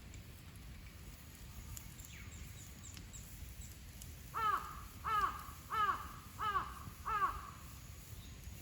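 A crow cawing five times in a row, harsh calls about two-thirds of a second apart, starting about halfway through.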